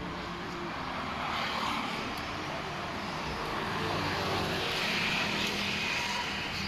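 Engine noise of a passing vehicle, swelling to its loudest about five seconds in and then easing off, over a steady low hum.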